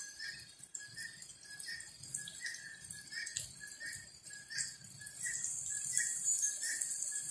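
Rain falling steadily, a hiss that grows louder about five seconds in. Under it, a short chirping call repeats about twice a second.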